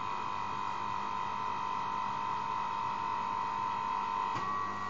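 Electric motor of a hydraulic lift pump running with a steady whine. About four seconds in there is a click, and the whine steps up slightly in pitch.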